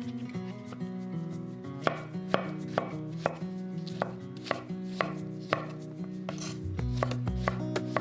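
Knife chopping food on a cutting board: a run of sharp knocks, about two a second, over background music whose bass comes in near the end.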